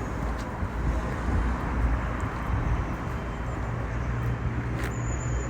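A vehicle engine running steadily at idle, a low even rumble.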